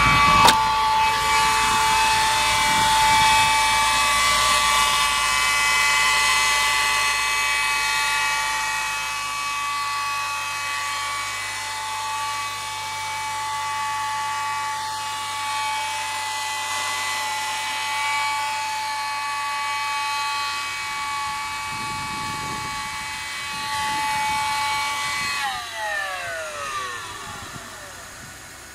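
Start-up whine from a 2008 Mercedes-Benz E300's engine bay: a steady, high-pitched whine of several tones over the running engine. Near the end, all the tones slide down together as the whine winds down. Similar videos online attribute this sound to the alternator or the A/C, while the car's A/C compressor does not run.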